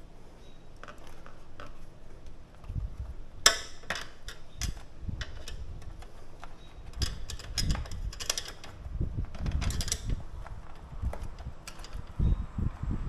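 Irregular clicks, taps and knocks of a plastic spacer and the metal RV awning arm being handled and worked into place, with one sharp knock about three and a half seconds in.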